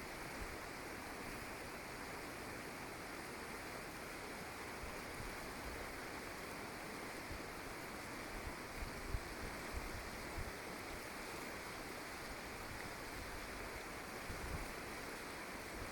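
Steady rushing outdoor background noise, with a few brief low thumps.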